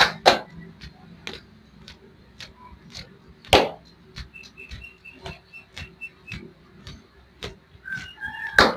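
Hand slaps on skin during a foot and leg massage: three loud, sharp smacks, a few seconds apart, with softer taps between them. A quick row of faint high chirps sounds in the middle.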